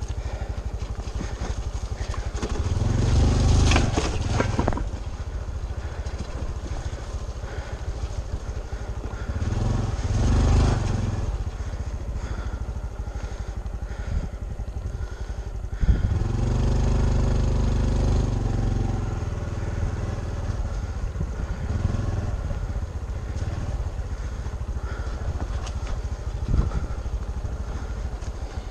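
Honda CT125 Trail 125's single-cylinder four-stroke engine running under way, rising and falling in revs with the throttle, with three stretches of harder pulling. A few sharp knocks stand out, the clearest about 16 and 26 seconds in.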